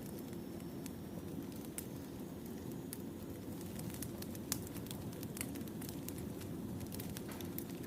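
Wood fire burning: a steady low rumble of flames with irregular sharp crackles and pops from the logs, one louder pop about four and a half seconds in.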